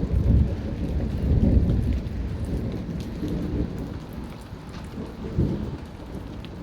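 Continuous rolling thunder, a deep rumble loudest in the first couple of seconds and easing off after about three, over steady rain falling.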